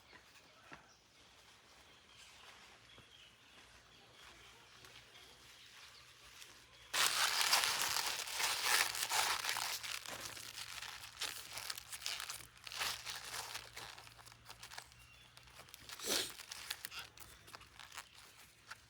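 Quiet at first, then about seven seconds in a sudden close rustling and crinkling starts, like material being handled or torn, with a sharper crackle near the end.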